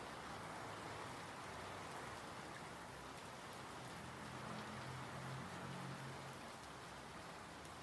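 Steady rain falling, an even patter of raindrops on surfaces. A faint low hum rises under it in the middle and fades out.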